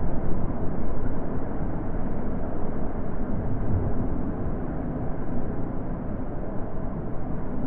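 Natural wind blowing: a steady low rushing that rises and falls a little.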